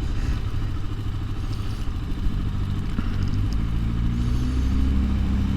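Bashan Brozz 250 dual-sport motorcycle engine running under way, its pitch climbing gradually through the second half as the bike accelerates.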